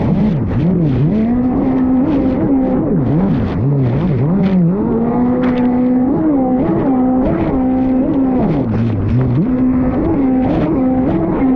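Fast Powersports F16 motocross bike's engine under hard riding: the pitch holds high, then drops sharply and climbs back again and again as the throttle is chopped and reopened, with one longer held high stretch near the middle. Short rushes of wind and noise come over it throughout.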